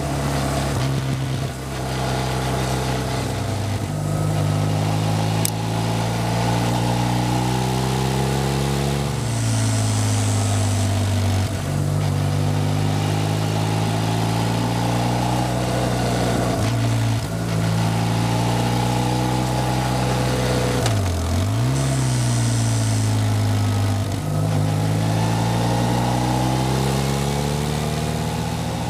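BMW R1150R Rockster's boxer-twin engine under way, its note rising and falling as the rider rolls on and off the throttle through the corners, with a sudden drop in pitch at each of several gear changes.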